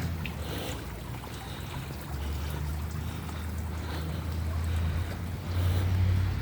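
Low, steady rumble of wind buffeting the microphone outdoors, with faint rustling.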